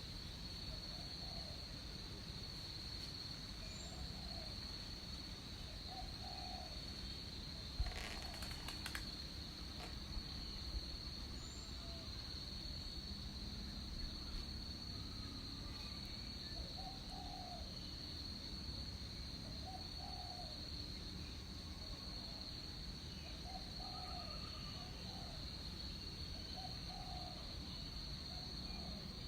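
Tropical rainforest ambience: insects keep up a constant high-pitched drone, and a short, low call repeats every two seconds or so, pausing for several seconds in the middle. A single sharp knock sounds about eight seconds in.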